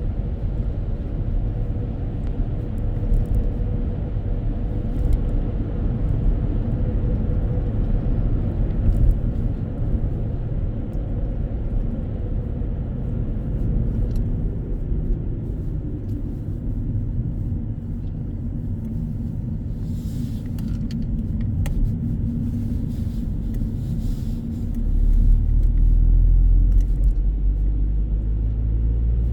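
Car driving along: a steady low rumble of engine and road noise, which grows louder near the end.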